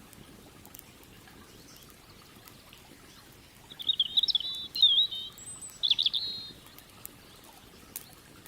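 A songbird sings one short, rapid warbling phrase, starting a little under four seconds in and lasting about three seconds. Faint scattered crackles from a campfire sound underneath.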